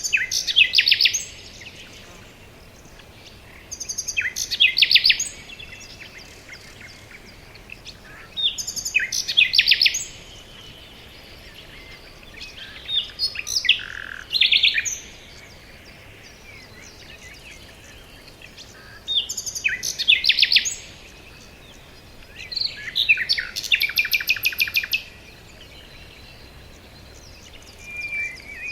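Songbird singing in the forest: short song phrases of quick trills and chirps, repeated about every four to five seconds, over a faint steady background hiss.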